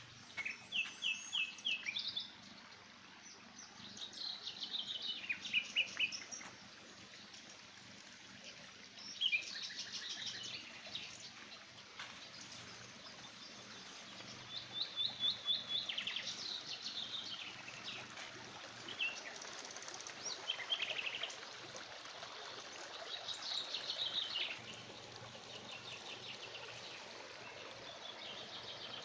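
A songbird singing: short phrases of quick, high repeated notes, about seven phrases spaced four to five seconds apart, over faint steady outdoor background noise.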